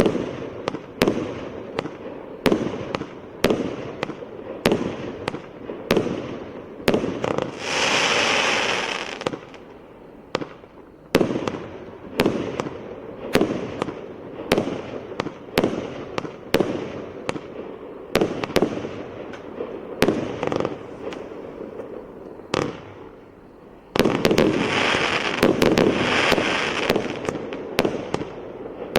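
A 144-shot fireworks cake firing: sharp shots at about two a second, with two longer stretches of dense crackling hiss, one about eight seconds in and a louder one from about 24 seconds.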